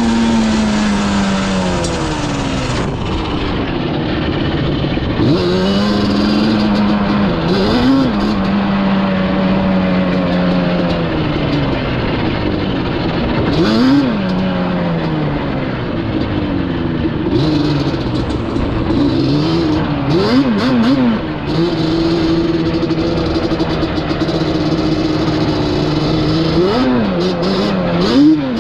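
Yamaha Banshee's twin-cylinder two-stroke engine running under way. It holds a steady pitch for stretches, with several sharp revs that rise and fall back as the throttle is blipped.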